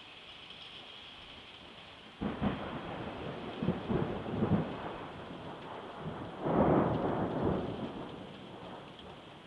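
Thunder during a rainstorm. Over steady rain, a sudden crack about two seconds in runs into a few crackling peals. A louder rumble follows near the middle and dies away.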